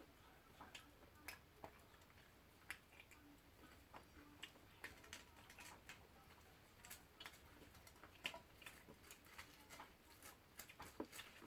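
Faint, irregular crackling and popping of a firewood fire burning in an agungi firebox: sharp little clicks, several a second.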